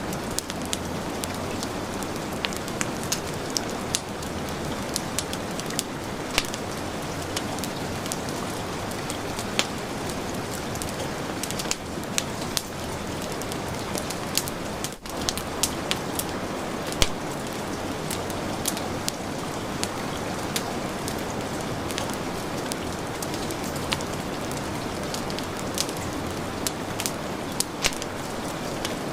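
Heavy rain falling steadily, mixed with the frequent sharp crackles and pops of a burning wood fire, with a brief dip about halfway through.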